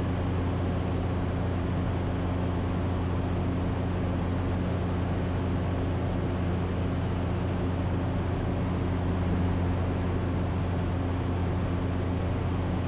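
Ikarus C42 light aircraft's engine and propeller droning steadily in cruise, heard from inside the cockpit as a constant hum with a low, even pitch.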